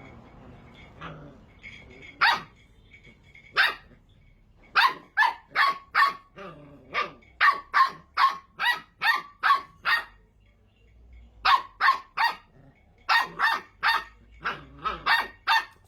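Puppy yapping in runs of short, high-pitched barks, about two a second, with brief pauses between the runs.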